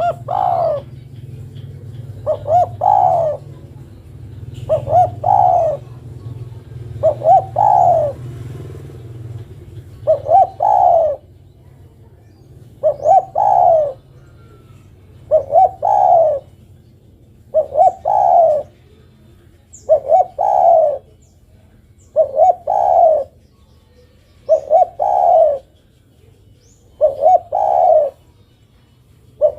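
Female derkuku (spotted dove) cooing, the call that answers and draws a male: a phrase of two quick short notes and then a longer one, repeated steadily about every two and a half seconds, a dozen times.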